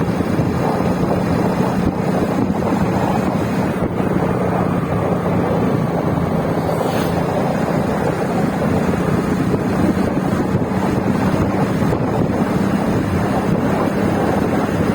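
Wind buffeting the microphone, loud and continuous, over a steady low hum.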